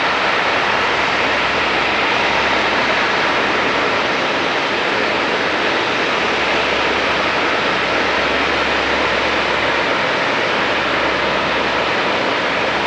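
Engines of a large four-engine turboprop military transport aircraft running with a loud, steady rushing noise that holds even throughout.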